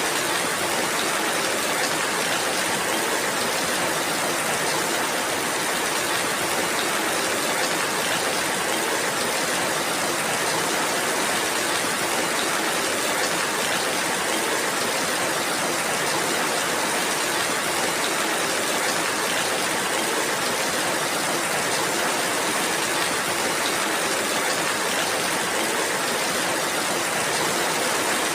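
Steady rainfall, a dense even hiss of many drops with no change in strength.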